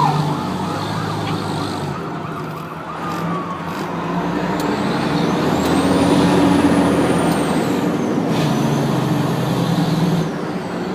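Fire truck driving with its diesel engine running and road noise, steady and growing somewhat louder partway through.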